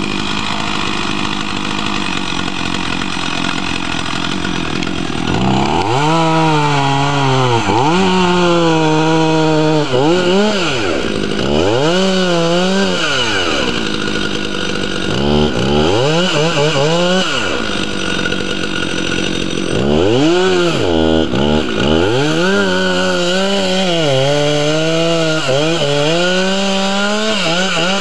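Chainsaw running throughout while cutting a tree, its engine pitch rising and falling over and over as the throttle is opened and eased, sagging low several times before climbing back.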